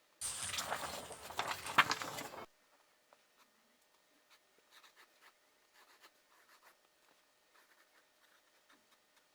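Pencil scratching on paper in short, faint strokes. For about two seconds near the start there is a much louder burst of dense scratchy noise that starts and stops abruptly.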